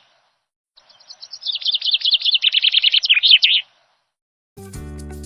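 Myna calling: a fast run of chirps lasting about three seconds, starting about a second in. Music comes in near the end.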